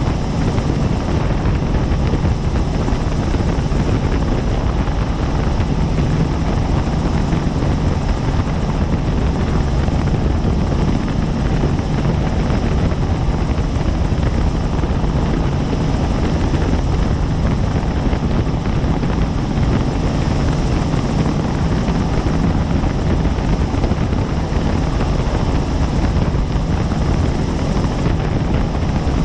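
Helicopter in steady flight heard from on board: a loud, unchanging drone of rotor and engine, heaviest in the low end, with a faint steady high whine.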